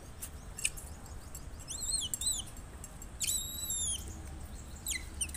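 High-pitched bird calls: several short whistled notes sliding down in pitch, and two longer arched calls in the middle.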